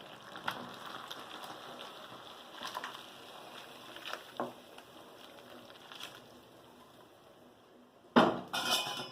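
Ladle clinking and scraping against metal pots as the chicken masala is transferred into the rice: a few light clinks, then a louder clatter of scraping near the end.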